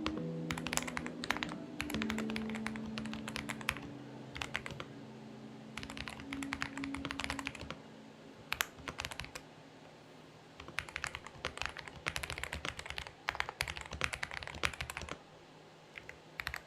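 Typing on a Xinmeng X98 mechanical keyboard: rapid clusters of key clicks in bursts, with short pauses between them.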